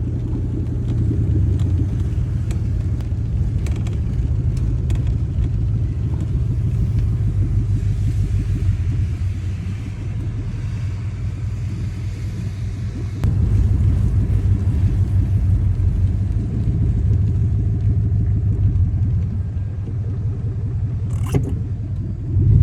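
Car being driven, heard from inside the cabin: a steady low engine and road rumble that gets louder about thirteen seconds in.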